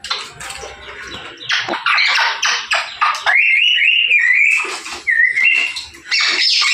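Parrot squawking in a quick run of rough calls, then whistling in wavering, rising and falling tones from about halfway through.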